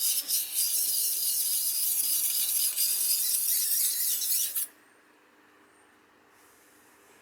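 Steel kitchen knife blade scraping across the fine side of a wet whetstone, a steady high-pitched rasp that stops about four and a half seconds in.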